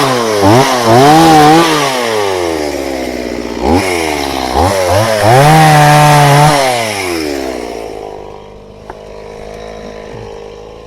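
Chainsaw revving high several times, its pitch rising and falling, then dropping to a steady idle about eight seconds in.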